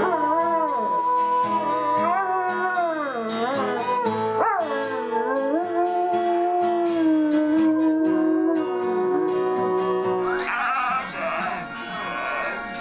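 A dog howling in long, wavering notes along with music. About ten and a half seconds in it cuts to a different, noisier sound.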